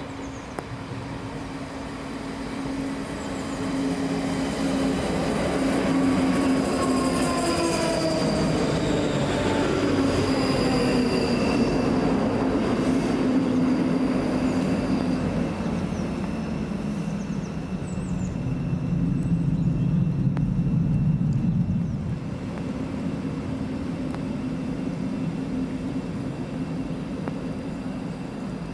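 Three-car ScotRail electric train arriving at a platform. Its motor whine falls in pitch as it slows, over thin wheel and brake squeal, and the loudest part dies away about three-quarters of the way through, leaving a steady hum.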